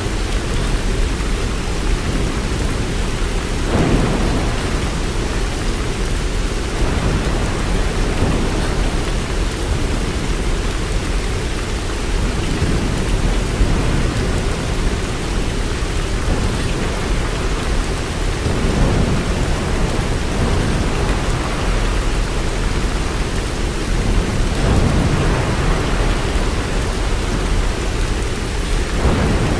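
Steady rain falling, with low rolls of distant thunder swelling up a few seconds in and again several times later on.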